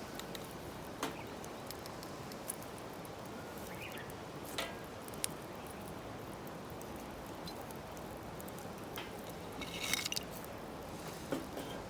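Wood bonfire burning, a steady hiss with scattered sharp pops and crackles, a quick cluster of pops about ten seconds in.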